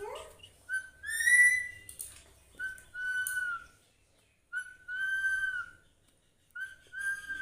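Pet parrot whistling the same two-note phrase four times, a short note then a longer held one. The first phrase ends in a louder rising whistle about a second in.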